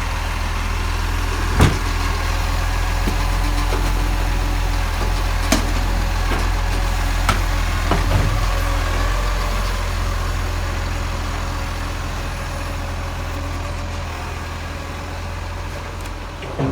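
Garbage truck engine running steadily, with a few sharp knocks or clunks over the top, about four in the first half.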